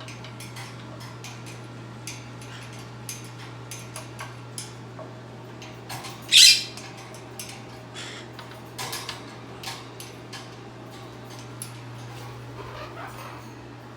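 Quaker parrot giving one loud, harsh squawk about six seconds in, among scattered light clicks and taps, over a steady low hum.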